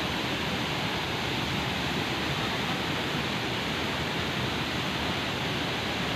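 Waterfall in full spate, swollen by heavy rain, giving a steady, unbroken rush of falling water.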